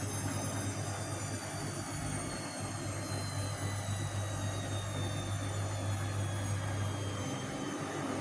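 Vestel CM8710 front-loading washing machine on its final spin: a steady motor hum with a high whine that falls slowly in pitch as the drum slows.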